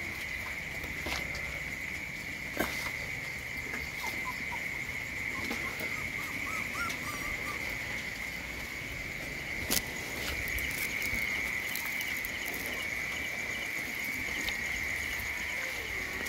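Steady, high-pitched drone of an insect chorus, with scattered light ticks and patters and a few faint chirps about six seconds in.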